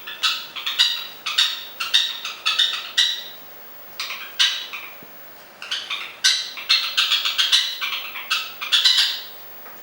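A parrot drumming: quick, hard knocking taps in uneven runs, with two short pauses, stopping about nine seconds in.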